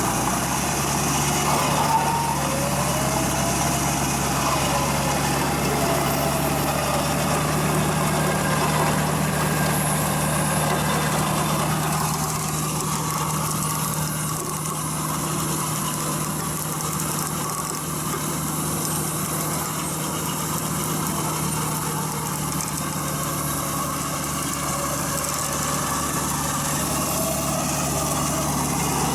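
An off-road 4x4's engine running steadily with an even, unchanging low hum.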